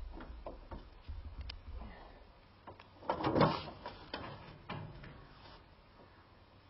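Scattered knocks and handling clatter from working on chimney parts and tools, with a louder cluster of knocks about three seconds in.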